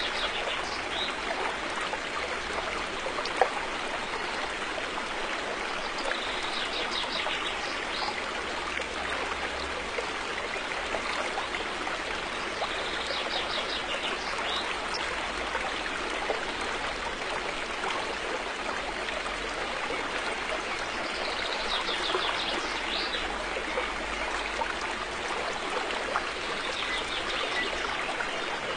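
River water flowing: a steady, even rush and babble of running water, with a few brief rapid high trills and an occasional sharp click over it.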